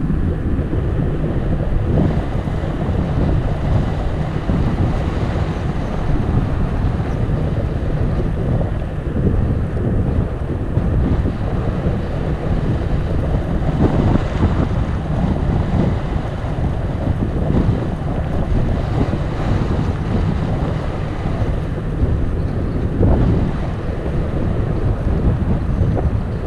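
Wind buffeting the microphone of a camera on a moving bicycle: a steady, loud, low noise with no other distinct sound.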